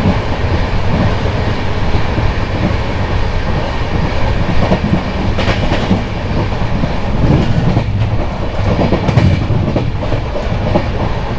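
Indian Railways passenger train running at speed, heard from the open doorway of a coach: a steady rumble and clatter of wheels on the track. A few sharper clacks come about halfway through.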